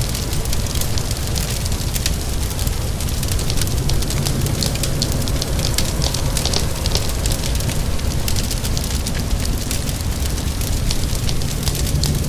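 Wood fire in a fireplace crackling, with frequent small pops, over a steady low rumble and a continuous hiss of rain.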